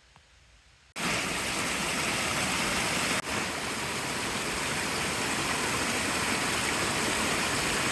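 Rain-swollen creek in flood, a steady loud rush of water that cuts in abruptly about a second in after near silence, with a brief break a little after three seconds.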